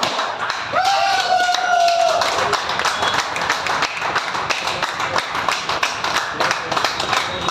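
A group of people clapping steadily, with a voice calling out briefly about a second in.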